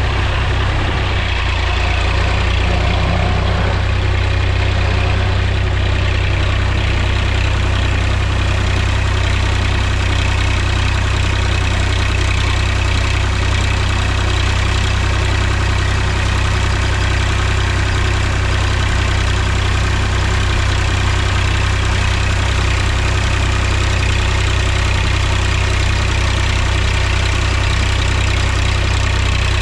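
Mahindra tractor's diesel engine running at a steady speed, a constant low drone with no change in pitch.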